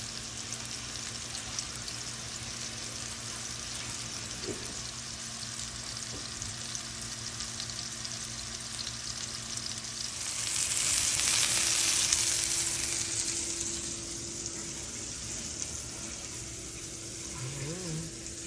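Plant-based burger patties sizzling as they fry in hot oil in a nonstick skillet, a steady hiss that grows louder for a few seconds around the middle.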